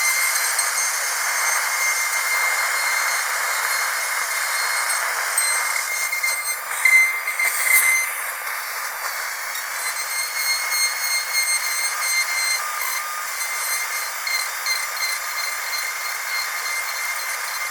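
Dentist's drill whining at a steady high pitch over a hiss. About seven seconds in, it briefly grows louder and its sound changes, then settles back.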